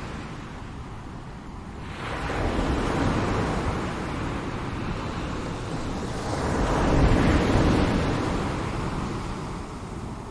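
Ocean waves breaking and washing on a shore, with a steady surf roar that swells about two seconds in and again around the seven-second mark.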